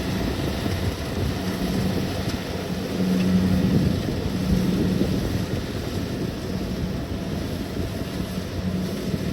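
Kubota DC-70 Plus combine harvester's diesel engine running steadily under harvesting load, with a low hum that swells and fades slightly.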